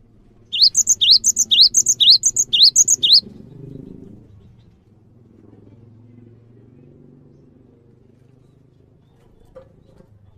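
A songbird singing a quick repeated phrase about six times in a row, each a rising whistled note followed by a higher chip. The song stops after about two and a half seconds, leaving a faint low hum.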